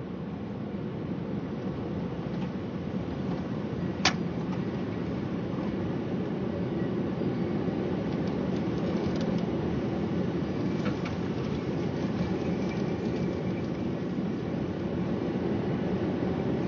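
Steady rushing noise of a severe thunderstorm, slowly growing a little louder, with one sharp click about four seconds in.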